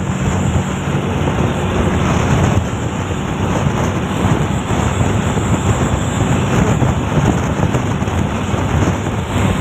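Heavy wind buffeting the microphone over steady vehicle engine and road noise.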